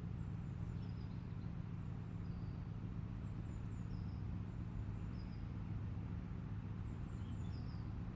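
Steady low hum of idling road vehicles, with small birds giving short high chirps every second or so.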